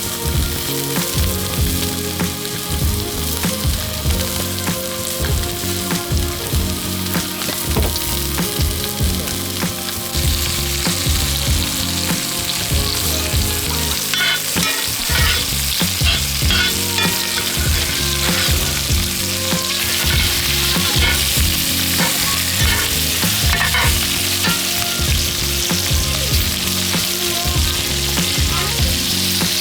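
Food frying and sizzling while being cooked, the sizzle growing louder about ten seconds in. Clicks and scrapes of stirring come and go over it.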